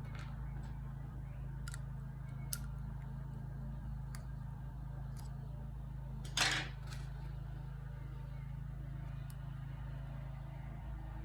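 Light clicks and taps of a small plastic tool being fitted into a motorcycle cam chain tensioner, with one brief scrape about six and a half seconds in, over a steady low hum.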